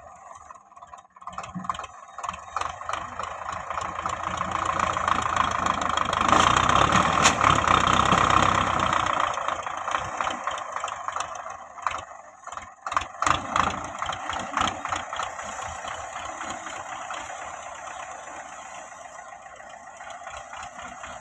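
Belarus 510 tractor's diesel engine running while it works a front blade. The sound builds to its loudest about six to nine seconds in, has a short dip with a few clattering knocks around twelve to fourteen seconds, then fades steadily.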